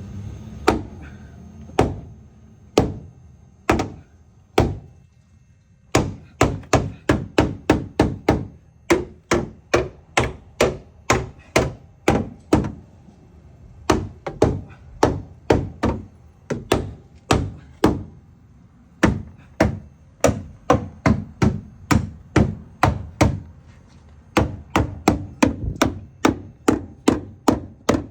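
Repeated hammer blows: a few spaced strikes, then a long run of steady blows about two to three a second with short pauses, as the part that was rubbing the new wheel is knocked back for clearance.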